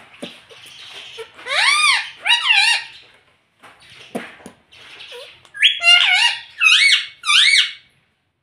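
Pet parrot calling: loud, high squawks that rise and fall in pitch, two of them near two seconds in and a quick run of three or four more from about five and a half seconds, with soft clicks and chatter between.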